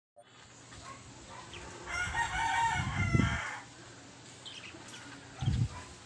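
A bird calls once, a single drawn-out call of about a second and a half that starts about two seconds in. There are low thumps near the middle and near the end.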